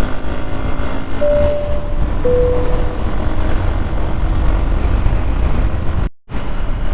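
Hero Xpulse 200 single-cylinder motorcycle engine running steadily while riding, under heavy low wind buffeting on the microphone. Two short steady tones sound about a second in and just after two seconds. The sound drops out for a moment near the end.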